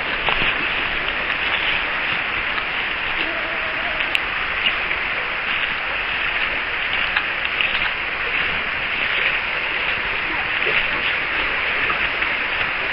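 Steady crackling hiss of water.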